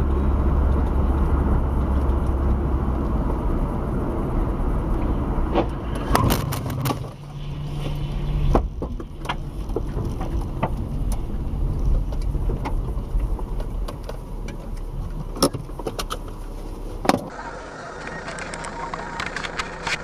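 Car engine and road noise heard through a dashcam, a steady low rumble, then a run of sharp knocks and clicks from about a third of the way in, with two louder knocks near the end.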